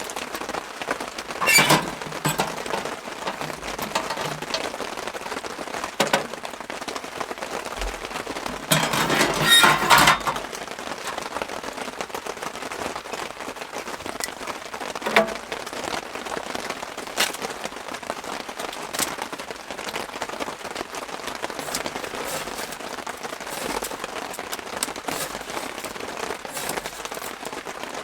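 Steady rain falling on a tarp-covered log cabin roof, with scattered light clicks. There is a short louder noise about a second and a half in, and a longer one lasting about a second and a half near ten seconds.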